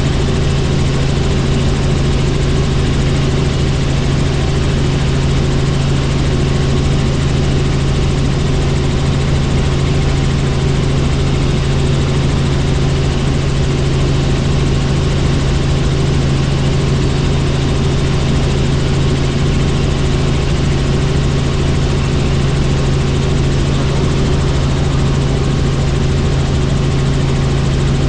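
Helicopter in flight, its engine and rotor making a steady drone with a strong low hum that does not change.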